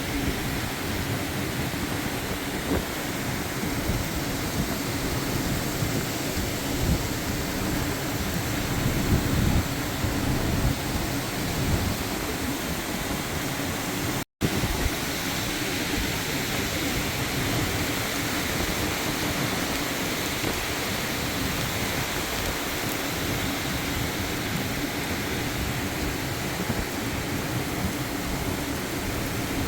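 Heavy tropical-storm rain and gusty wind from a hurricane rain band, the wind buffeting the microphone in irregular gusts. About halfway through, the sound cuts out for a split second and then resumes unchanged.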